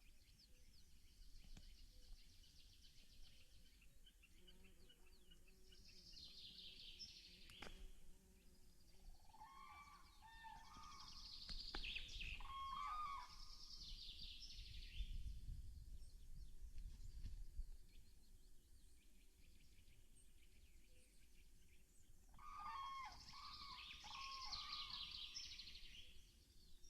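Faint songbird song in separate phrases of warbles and trills, three main bursts, with a low rumble in the middle.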